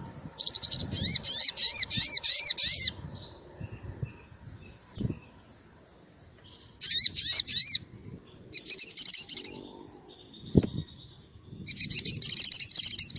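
A sunbird (the 'sogon', kept as a song bird) singing in bursts of rapid, high, sharp chirping notes. There are four bursts, the first about two and a half seconds long, and two low thumps fall in the pauses between them.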